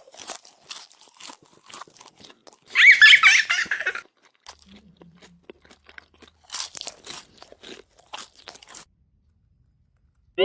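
Crunchy food being chewed and bitten in irregular crackles, with a loud high squeak about three seconds in. A quick rising whistle comes at the very end.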